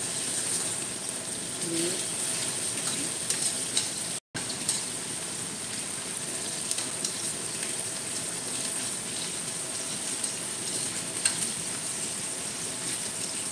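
Chicken drumsticks sizzling in hot oil in a stainless-steel wok with garlic, spring onion and chili, being seared before the sauce goes in. Metal tongs click against the pan now and then as the pieces are turned, and the sound cuts out for a moment about four seconds in.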